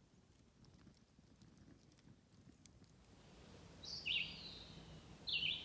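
Faint scattered clicks, then from about three seconds in a bird calling twice, each call a short chirpy burst of notes dropping in pitch.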